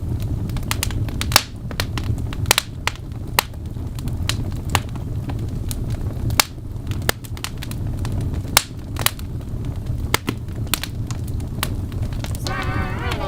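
Wood fire crackling: a steady low rumble of flames with irregular sharp pops and snaps, several a second at times.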